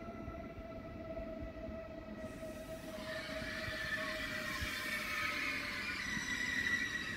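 Deutsche Bahn ICE electric high-speed train rolling slowly past along the platform, its traction equipment giving a steady electric whine of several tones. About three seconds in, a higher whine and a hiss of running gear come in, and the sound grows gradually louder.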